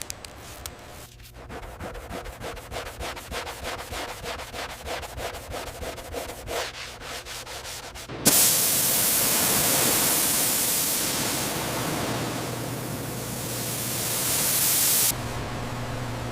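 Quick, regular rubbing strokes, like hand sanding or scrubbing a surface. About eight seconds in they give way to a sudden loud, steady hiss that cuts off abruptly some seven seconds later, leaving a quieter steady noise.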